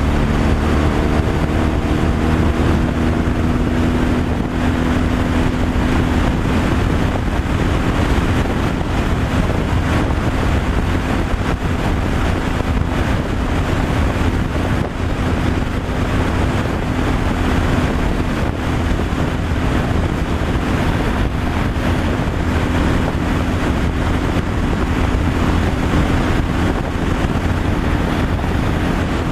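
Tractor-trailer truck driving on the highway: a steady engine drone at constant pitch under continuous tyre and wind noise.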